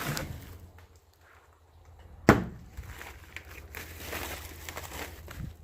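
Handling noises with one sharp knock a little over two seconds in.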